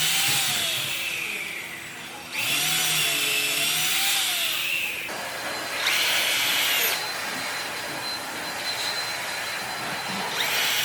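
Handheld electric power tool running on wood in several loud bursts of a few seconds each, its motor pitch wavering up and down, with quieter running between bursts.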